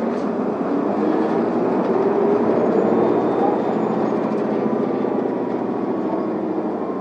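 Inside an Isuzu Erga city bus: the diesel engine and drivetrain running steadily as the bus pulls in to a stop, swelling a little about halfway through.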